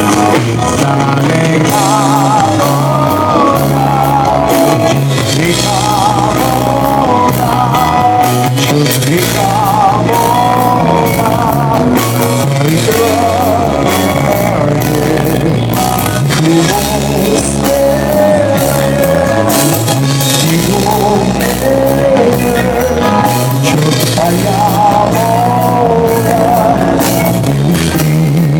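Live pop-rock band music with electric bass, drums and guitar under a wavering lead melody, carrying on without a break.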